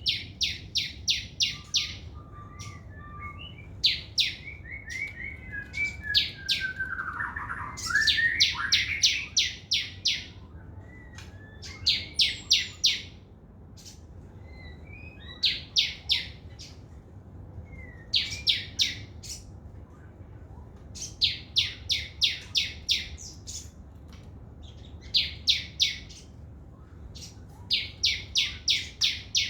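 A small songbird singing in repeated bursts of rapid, evenly spaced sharp notes, six to eight at a time, a burst every two to three seconds: fast 'trotol' song. Around a quarter of the way in there is a lower, softer twittering passage between bursts.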